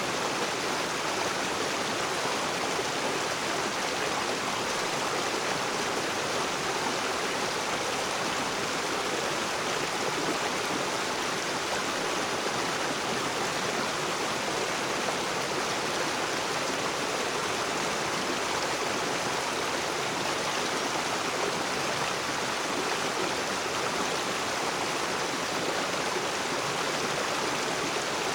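River water running steadily over rocks, a constant rushing with no breaks.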